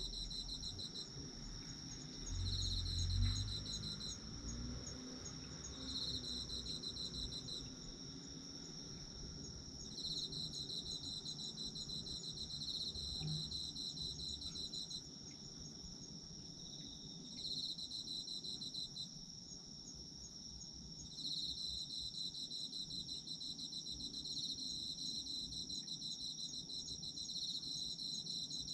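Autumn crickets and other insects chirping in chorus: one sings an unbroken high trill while another trills in bursts of a second or two with short pauses between. A brief low rumble comes two to four seconds in.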